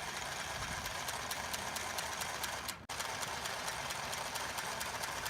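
Mini Singer sewing machine running under its foot pedal, stitching fabric with a steady whir and evenly spaced needle ticks; it pauses briefly just under three seconds in, then carries on.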